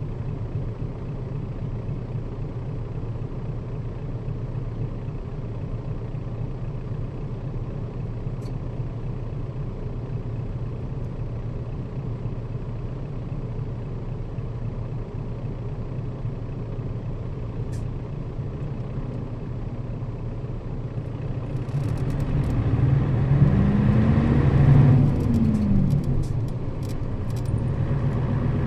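Nissan Diesel KL-RA552RBN bus running on the road, heard from inside the cabin: a steady low engine and road rumble. About three-quarters of the way in it grows louder, the engine note rising and then falling, with rattling clicks.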